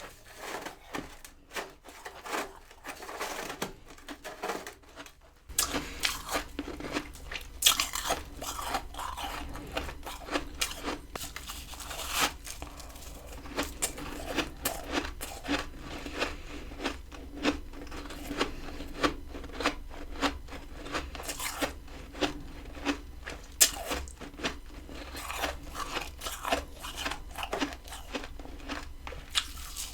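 Freezer frost being bitten and chewed close to the microphone: a dense, irregular run of sharp icy crunches. A steady low hum comes in about five seconds in.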